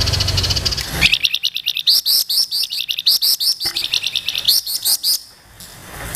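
Songbird singing: a buzzy trill in the first second, then a quick series of sharp, upward-sweeping whistled notes, about three or four a second, for some four seconds before it falls away near the end.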